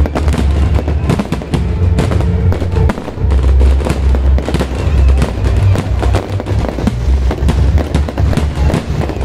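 Aerial fireworks going off: many sharp crackling pops in quick, irregular succession over a heavy low rumble, with music playing alongside.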